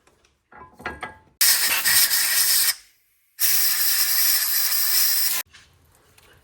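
Aerosol spray can rattled briefly, then two hissing bursts of spray, the first about a second long and the second about two seconds long.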